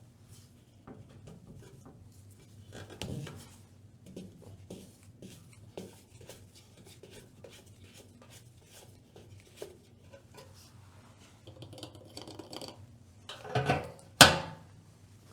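Diesel being poured from a fuel can into a Kubota tractor's tank: irregular glugs, small clicks and rubbing as the can is handled, with two louder knocks near the end.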